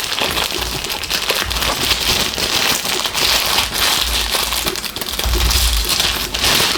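Plastic packaging crinkling and rustling steadily as it is handled and pulled apart, with a few dull bumps of handling near the end.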